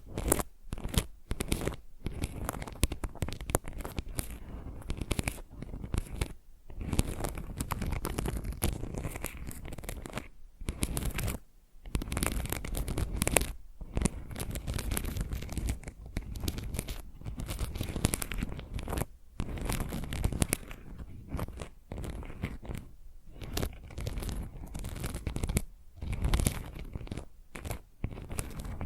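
Fingernails scratching the rough back of a tile close to the microphone: quick gritty strokes in runs, broken by short pauses.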